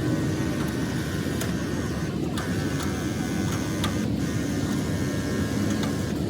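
An engine running steadily, with a thin steady whine above its noise and a few faint clicks.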